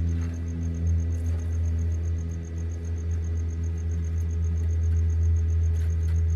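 TIG welder running during welding of a thin aircraft exhaust heat shield: a steady low electrical hum.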